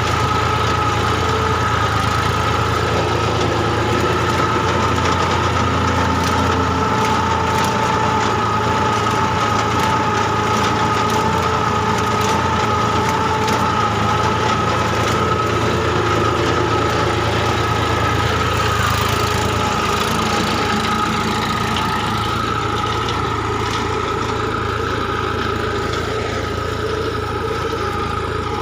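Massey Ferguson 246 DI Dynatrack tractor's diesel engine running steadily, with a steady high whine over the engine note. It gets a little quieter about three-quarters of the way through.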